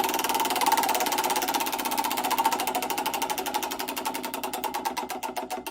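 V12 supercar engine winding down. Its fast, even beat slows steadily and grows quieter as the revs fall.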